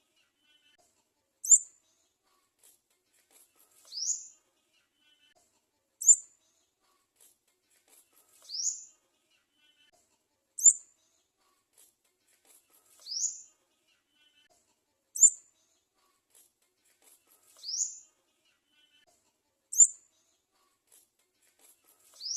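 High-pitched calls of a garden sunbird chick begging for food: a short rising squeak and a brief sharp chirp take turns at an even, unchanging pace, with silence between.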